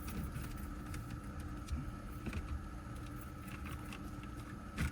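Faint clicks and light knocks of plastic dash trim being handled and fitted back into place, over a steady background hum; a sharper knock comes near the end.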